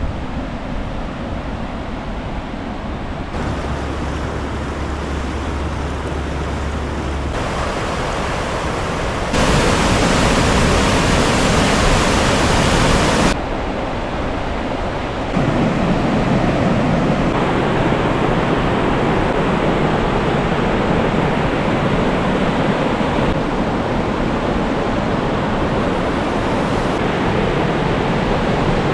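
Waterfall rushing: a steady roar of falling water whose loudness and brightness jump abruptly several times, loudest about nine to thirteen seconds in.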